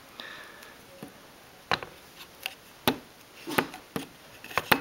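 Scissors snipping masking tape: a handful of short, sharp snips at irregular intervals, starting a little under two seconds in.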